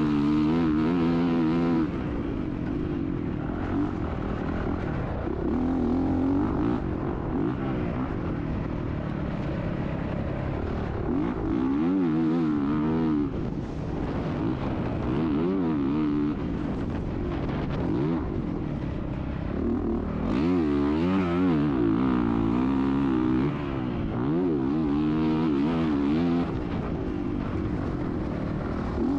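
Motocross motorcycle engine being ridden hard, its pitch rising and falling over and over as the throttle opens and closes and the gears change, with brief drops in level between pulls.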